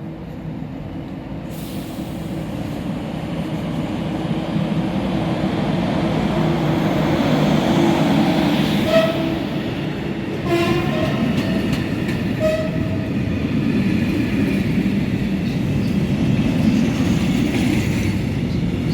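A train running past on the track: its rumble grows louder over the first several seconds and then holds steady. A few short pitched tones sound near the middle.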